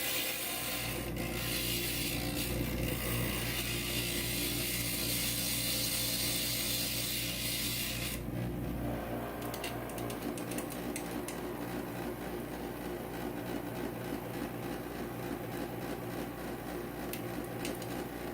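Inland stained glass grinder running with a steady motor hum while a glass piece is pressed against the spinning grinding bit, a loud gritty hiss that stops about eight seconds in. The motor keeps running after that, with light scattered clicks.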